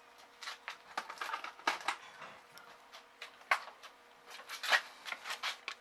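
Light, irregular clicks and taps of hands handling plastic and metal parts inside an opened LED TV around the backlight ribbon cable connectors, with a faint steady hum underneath.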